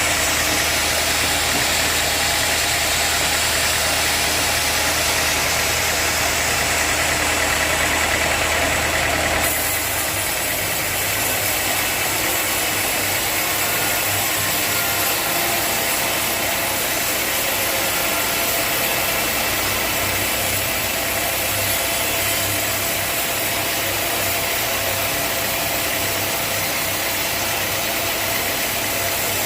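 Sawmill machinery running steadily with an engine-like drone. The sound changes abruptly about nine and a half seconds in.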